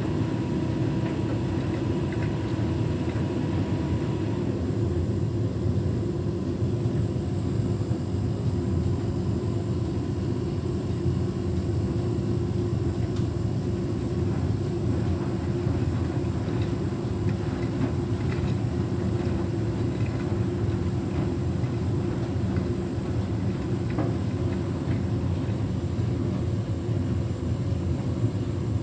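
Beko WTK104121W washing machine drum turning with a steady low rumble as it tries to go into its intermediate spin. The load is a bit unbalanced, so the drum does not speed up.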